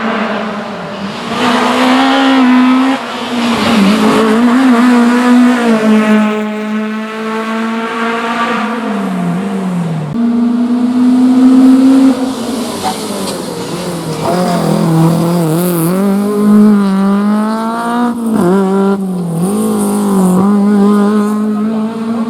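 A historic rally car's engine worked hard on a special stage. It revs up, drops in pitch as the driver lifts off and changes gear, then revs up again with several more gear changes and throttle lifts.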